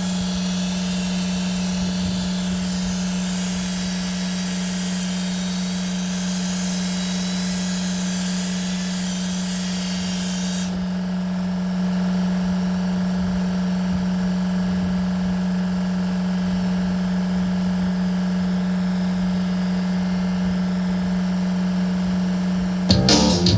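An electric power tool's motor running at a steady speed, with a high hiss over it that cuts off about halfway through. Guitar music comes in right at the end.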